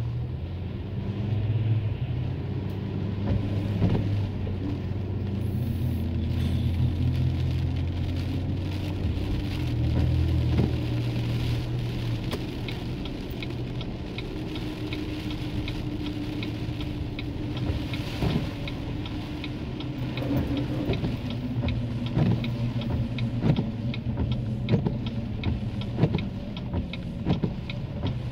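A car engine running with a steady low hum, and rain falling with scattered taps. The hum weakens about ten seconds in, and the taps grow more frequent in the second half.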